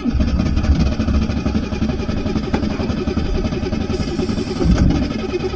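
Water-soaked Ford 2.9-litre V6 firing and running roughly on ether sprayed into its intake, a steady rough engine sound. It only almost runs: the fuel-injected engine is not getting the fuel pressure it needs.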